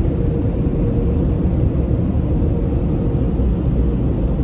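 Automatic tunnel car wash machinery running, heard from inside the car: a loud, steady low rumble with a constant hum in it.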